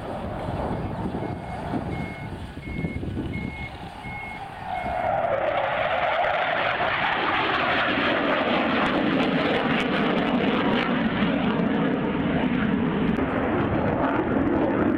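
A row of about six short, high electronic beeps, like a vehicle's reversing alarm, over a background rumble. About five seconds in, loud aircraft engine noise sets in suddenly and continues, with its tone sliding lower.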